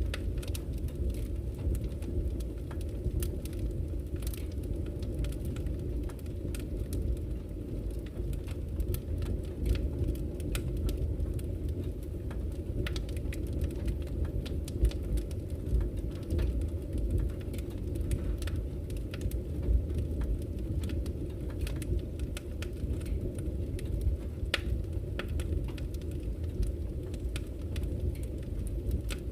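Campfire crackling, with frequent sharp little pops and snaps, over a steady low rush of flowing river water.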